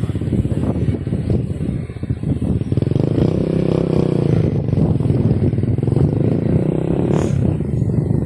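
A motor engine running close by, its pitch rising and easing off again from about three seconds in.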